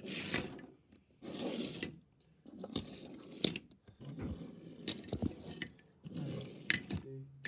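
Diecast toy cars being handled: a series of short scrapes and rustles with a few sharp clicks.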